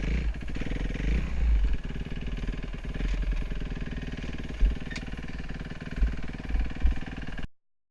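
Four-stroke single-cylinder engine of a 2013 Kawasaki KX250F motocross bike running under varying throttle, its pitch rising and falling as it rides. The sound cuts off suddenly near the end.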